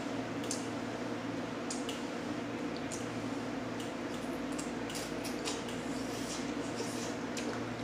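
Close-up eating sounds: wet chewing and many short lip smacks and clicks as a mouthful of butter-dipped king crab meat is eaten, over a steady low background hum.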